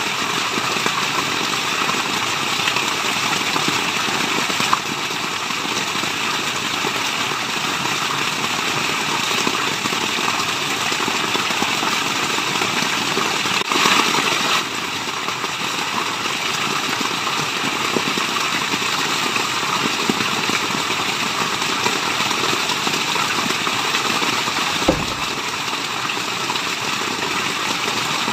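Waterfall rushing steadily, a dense even hiss of falling water. It swells briefly about halfway through, and there is a short low thud near the end.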